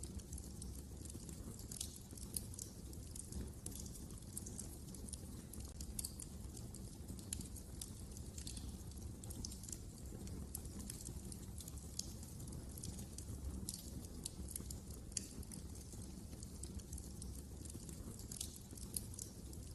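Fire burning in a fireplace, crackling with frequent irregular sharp pops over a low steady rumble.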